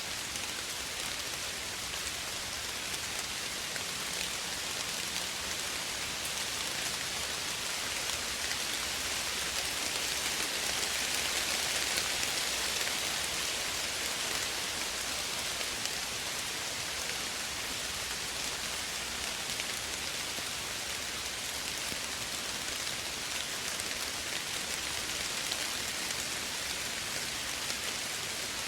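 Steady soft rain falling, a dense patter of drops hissing on surfaces, swelling slightly a little before the middle.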